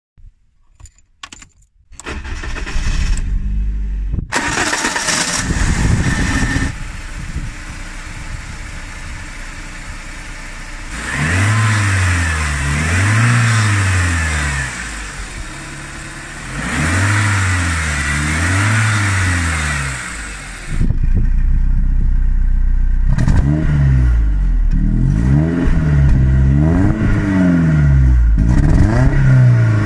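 BMW E36 318i's four-cylinder petrol engine started with the key, catching about two seconds in and settling to a steady idle. It is then revved again and again in short blips, each rising and falling, coming closer together near the end.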